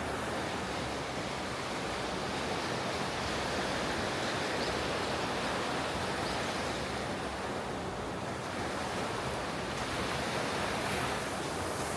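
Ocean surf washing onto the beach: a steady, even rush of breaking waves that swells and eases slowly, with no separate crashes standing out.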